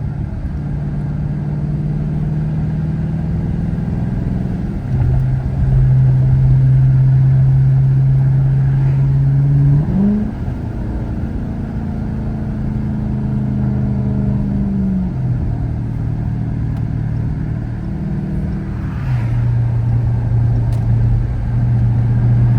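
Car engine and road noise heard from inside the cabin while driving, a steady low drone whose pitch steps up about ten seconds in and drops back several times as the engine speed changes.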